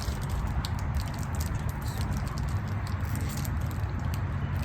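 Candy wrapper or snack packaging crinkling in the hands: scattered small clicks and rustles, over a steady low hum.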